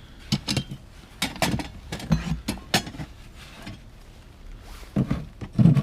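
Small hard objects, metal among them, clinking and knocking as they are handled and set down: a string of sharp taps over the first three seconds, then a heavier clunk near the end.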